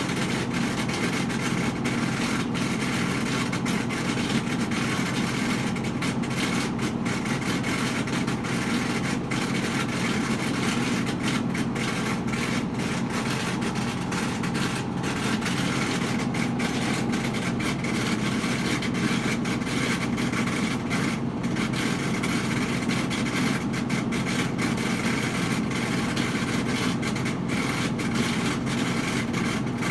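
Whirlpool front-load washing machine running through its spin and drain cycle with a steady low hum and rumble that does not change, the noise the owner is complaining about.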